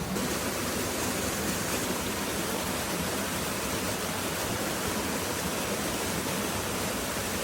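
Steady rush of water from a small waterfall on a river.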